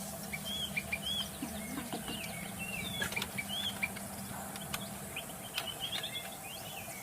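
White-rumped shama singing: a run of short, clear whistled notes, many of them arched in pitch, repeated in quick succession with a few sharp clicks between.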